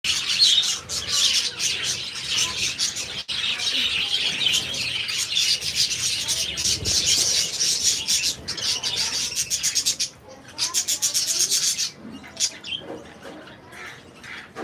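Budgerigars chattering in a dense, scratchy chorus of rapid chirps. About ten seconds in it thins out to scattered separate chirps.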